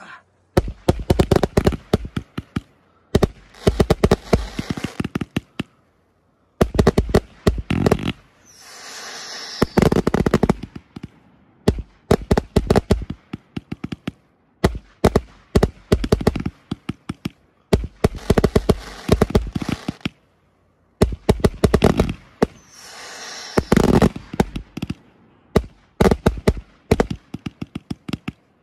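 Fireworks going off: fast strings of sharp cracks and pops in several separate runs that stop suddenly between them. Twice, about a third of the way in and again late on, a longer hissing crackle spray rises over the pops.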